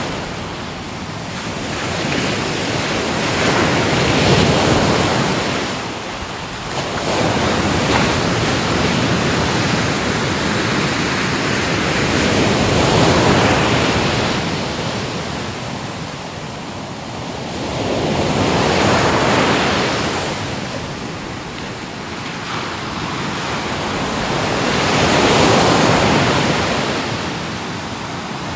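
Ocean waves breaking and washing on the shore, the surf swelling and ebbing in surges every few seconds, with wind noise on the microphone.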